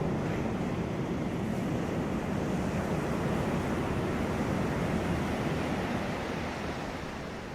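Sea waves breaking on a beach: a continuous rush of surf that eases off slightly near the end.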